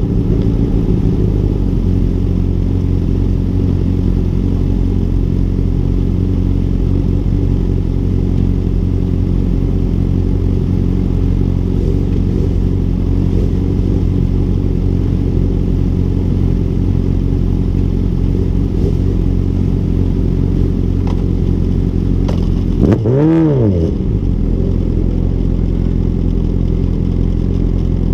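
2006 Honda CBR1000RR's inline-four engine idling steadily, with one quick throttle blip that rises and falls in pitch about three-quarters of the way through.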